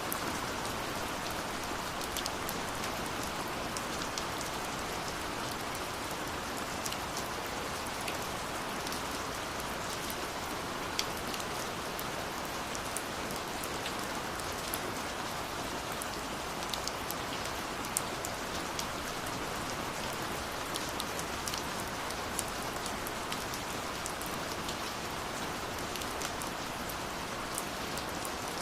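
Steady rush of falling water, with the scattered sharp pops and crackles of a wood fire over it.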